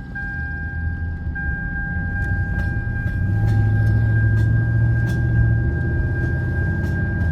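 Lexus LS460's 4.6-litre V8 engine heard from inside the cabin under acceleration, its low note rising and growing louder about three seconds in, then easing; the engine is hesitating and misfiring. A steady high electronic tone runs over it throughout.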